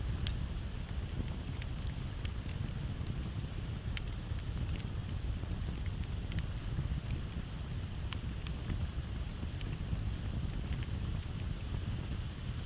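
Campfire burning with irregular sharp crackles and pops over a steady low rumble, and a steady high cricket trill behind it.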